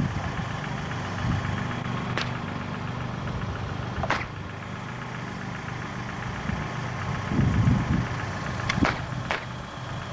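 A car engine running steadily, swelling briefly about three quarters of the way through. Four sharp knocks come through, two of them close together near the end.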